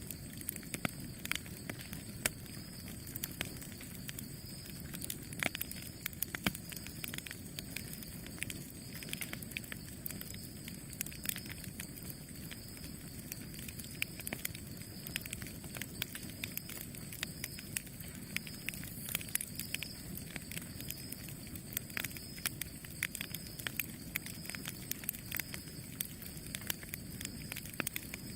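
Wood fire burning, crackling and popping with many sharp irregular snaps over the low, steady rush of the flames.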